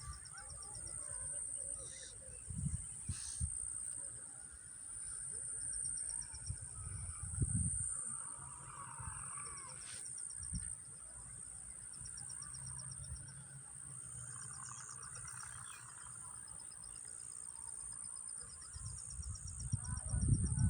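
Outdoor nature ambience: a steady high insect-like whine, with several fast pulsing trills a few seconds long and scattered bird chirps. Irregular low rumbles run beneath them.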